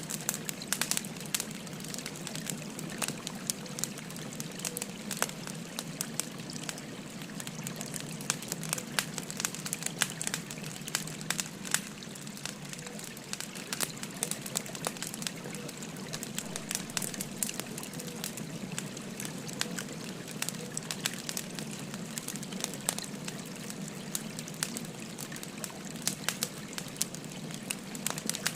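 Wood fire crackling with frequent sharp pops and snaps, over the steady babble of a flowing river.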